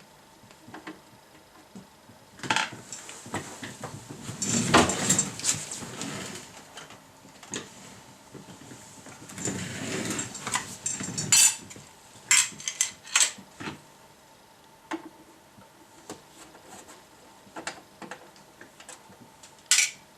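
Irregular clattering and clinking of hard, metallic objects being handled, in two longer busy spells with sharp single clicks between them.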